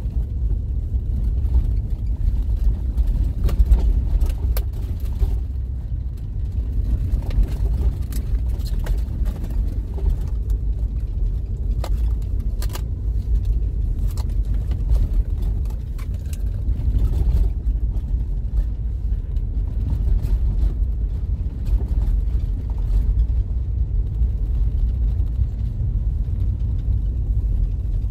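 Steady low rumble of a car driving, heard from inside the cabin, with a few faint clicks now and then.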